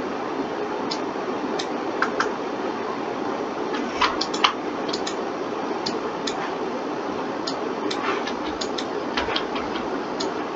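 Scattered computer mouse and keyboard clicks over a steady low hiss. There is a cluster of clicks about four seconds in and another around eight to nine seconds.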